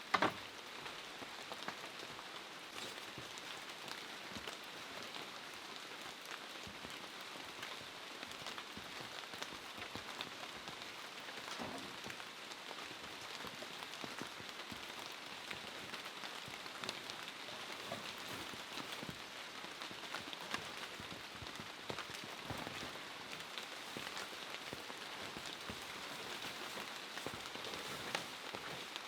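Steady rain falling, a constant hiss dotted with the ticks of individual drops, with one sharp knock right at the start.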